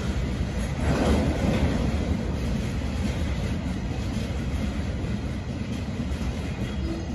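Freight train of tank wagons rolling past: a steady rumble of wheels on the rails. It is a little louder about a second in and eases off slightly toward the end.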